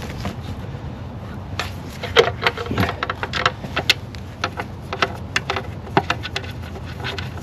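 Irregular small metallic clicks and clinks of 10 mm bolts being handled and started by hand into the intake plenum's brackets, over a steady low hum.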